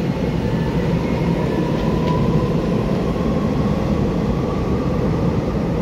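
Steady rumble of an electric train in an underground station, with a faint high tone that sinks slightly in pitch.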